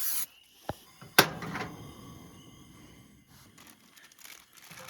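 A hiss cuts off right at the start, then a small click and a single loud knock with a short metallic ring that fades over about a second.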